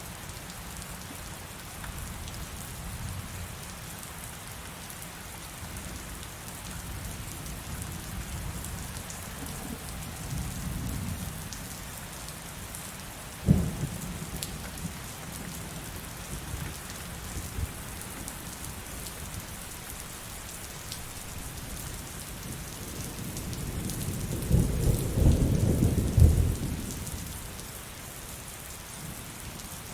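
Heavy rain falling steadily, with a sharp crack of thunder about halfway through and a loud, low rolling rumble of thunder lasting a few seconds near the end.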